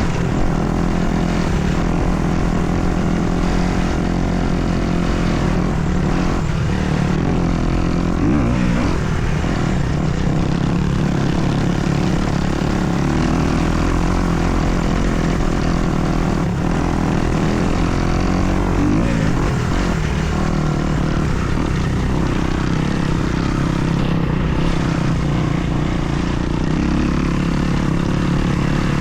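Kawasaki KX250's four-stroke single-cylinder dirt bike engine running steadily while ridden, its pitch rising and falling a little with the throttle.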